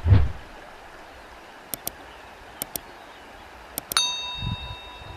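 A couple of low thuds, then three pairs of sharp clicks about a second apart, then a bell-like ding about four seconds in that keeps ringing with a steady tone.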